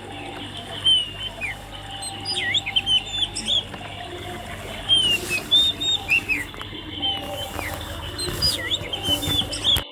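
Swiftlets chirping: many short, high chirps and twitters, some rising and some falling, overlapping irregularly over a steady low hum.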